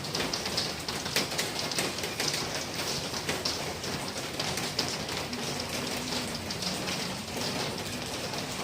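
Steady rain falling and hitting a hard surface, with many individual drops striking close by as sharp ticks.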